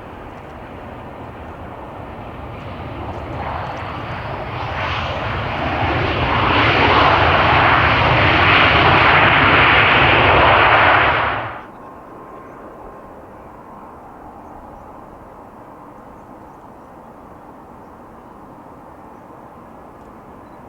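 Jet airliner engines growing louder as the aircraft nears, holding loud for several seconds, then cutting off abruptly about halfway through, leaving a quieter steady background hum.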